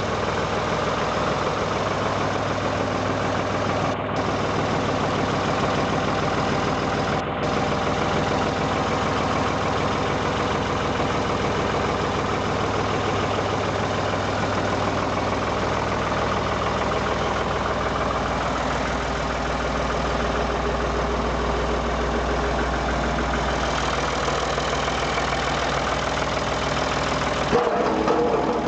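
Tractor engine running steadily, driving a rear-mounted Teagle cement mixer. The engine's low note drops lower about two-thirds of the way in, and the sound changes again near the end.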